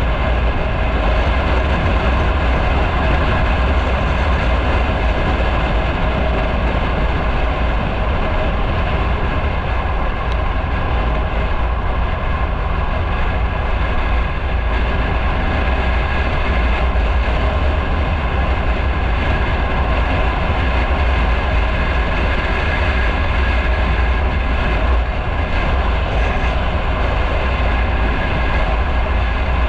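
Motorcycle running at a steady cruising speed, its engine note held even, with heavy wind rumble over the microphone.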